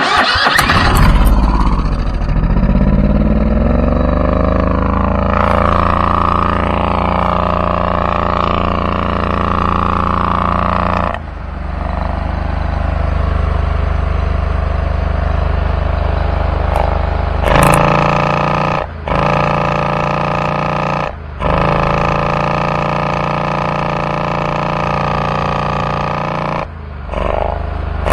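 Replacement engine on a zero-turn mower being revved. It speeds up over the first few seconds, runs steady, drops back about eleven seconds in, then picks up again with a few brief sharp cut-outs. It will not rev up even with the governor worked by hand, a fault the owner suspects is fuel-related.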